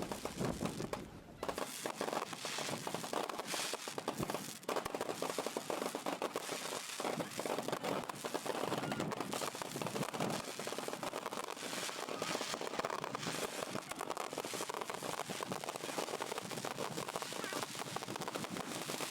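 Fireworks and firecrackers crackling and popping in a dense, continuous run of rapid small bangs.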